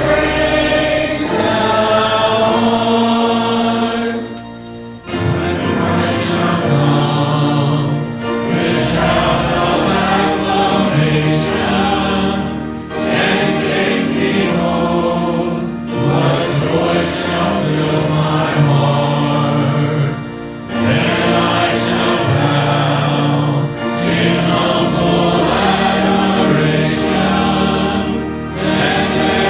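A group of voices singing a hymn with instrumental accompaniment, in phrases with short breaks between them.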